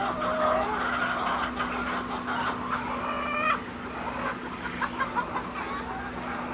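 A flock of laying hens clucking and calling over one another, with one louder call about three seconds in that breaks off abruptly. A steady low hum runs underneath.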